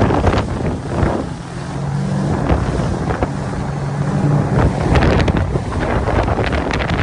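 A boat's engine running steadily on a river, with wind buffeting the microphone and water splashing.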